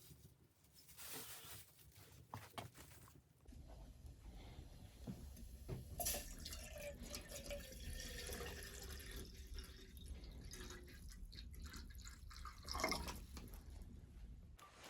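Water dripping and trickling, among small clicks and knocks.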